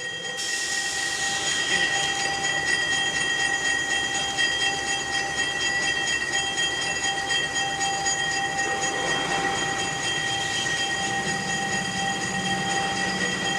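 A train moving on the rails: a steady rumble with several high, sustained tones held over it throughout.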